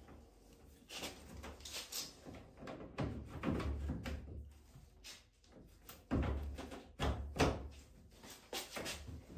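Irregular knocks, clunks and scraping as washing-machine drum parts are handled and fitted during a drum and bearing replacement, with a few heavier thumps in the second half.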